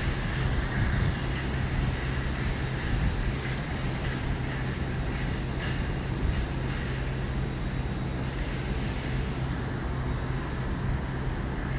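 Steady low hum and rumble of electric trains in a large railway terminus, with no distinct event.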